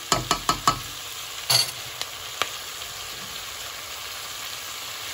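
Fried chicken pieces with onion and capsicum sizzling in a hot non-stick pot, with a spatula knocking against the pan about five times in quick succession in the first second and a few more times after. From about two and a half seconds in, only the steady sizzle remains.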